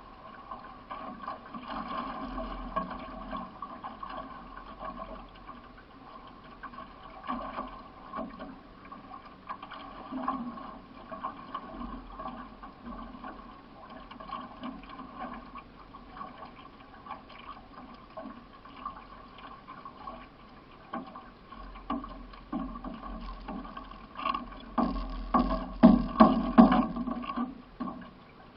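Paddle strokes and water sloshing along the hull of a solo racing canoe under way, with small splashes and knocks throughout. Near the end comes a louder cluster of splashes and knocks.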